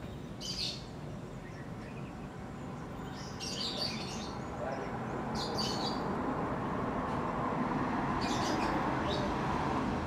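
Birds chirping in about four short bursts of high notes over a steady outdoor background noise.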